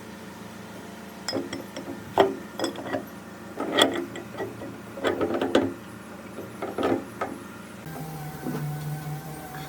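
Irregular knocks and clatter in short clusters a second or so apart, over a low steady hum.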